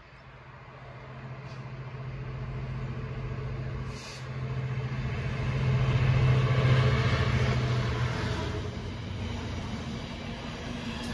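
Class 66 diesel locomotive's two-stroke EMD engine humming on a steady low note as it approaches and passes at the head of an intermodal container train. The engine is loudest about six seconds in and fades out near the end, leaving the steady rumble of the container wagons rolling over the track.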